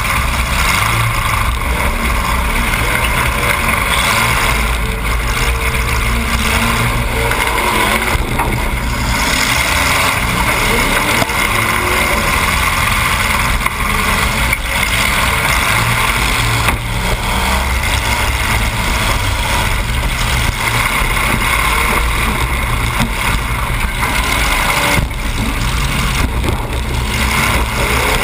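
Demolition derby car's engine running loud and steady through short open exhaust stacks poking up through the hood, heard close from a camera mounted on the car.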